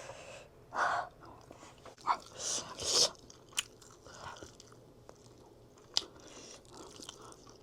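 A person biting and chewing crunchy food close to the microphone, in irregular mouthfuls with the loudest crunches in the first three seconds, and a few sharp clicks later on.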